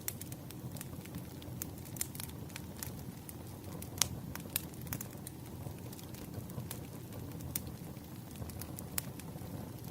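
Wood campfire burning with a steady low rumble of flame and irregular sharp crackles and pops of burning wood, the loudest pop about four seconds in.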